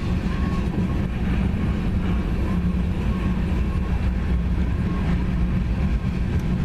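Norfolk Southern freight train rolling past, its cars running steadily on the rails.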